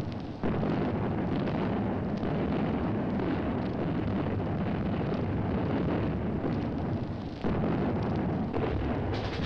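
Continuous rumbling roar of battle gunfire and explosions, starting suddenly about half a second in and surging again near the end.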